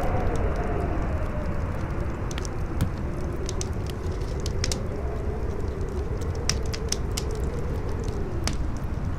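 Campfire crackling with scattered sharp pops over strong wind that howls in slowly rising and falling tones, with a steady low rumble beneath.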